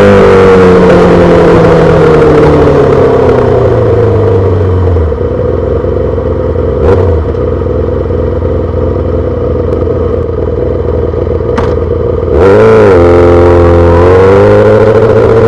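2008 Yamaha R6 inline-four through a full SC-Project exhaust, slowing with its pitch falling and then idling for several seconds, with two sharp clicks. About twelve seconds in it gets loud with a quick blip of the throttle, then pulls away with rising pitch.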